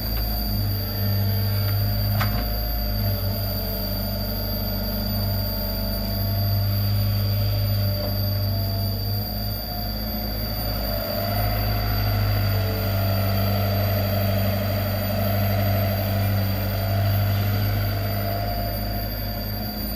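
Komatsu PC75 excavator's diesel engine running steadily with a deep hum, with a single short knock about two seconds in.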